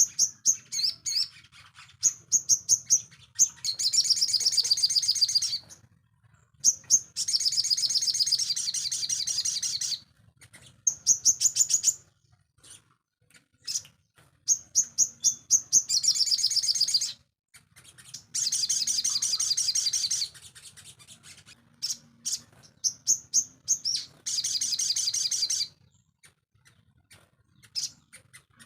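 A sogon songbird singing: runs of sharp, high chirps alternating with fast, buzzy trills of about two seconds each, repeated five or six times with short pauses between.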